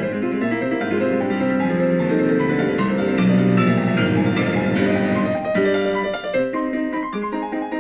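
Background piano music, with a busier passage in the middle that thins out near the end.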